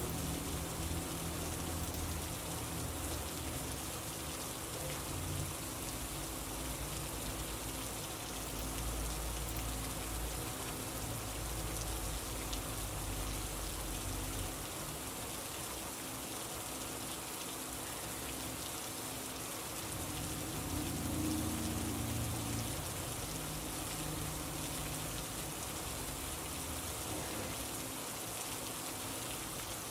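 Steady rain falling, an even hiss of drops on a surface, with a faint low rumble swelling now and then.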